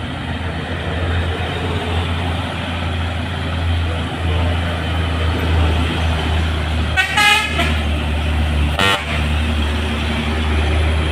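Heavy truck's diesel engine running steadily under load as it climbs, with a horn sounded twice, a half-second blast about seven seconds in and a short toot about two seconds later.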